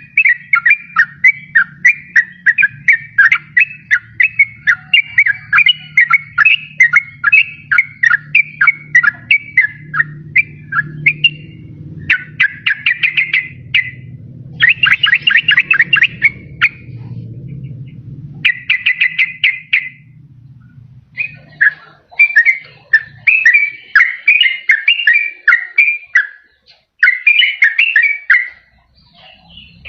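Sooty-headed bulbul (trucukan) singing: a steady run of quick, chattering whistled phrases, with several bursts of very rapid repeated notes in the middle. After a pause of about two seconds the phrases resume. A faint low hum runs underneath until about two-thirds of the way through.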